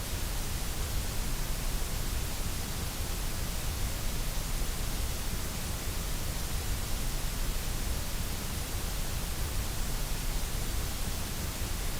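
Steady, unchanging electronically generated white noise, an even hiss spread from low rumble to high pitches with no breaks or changes.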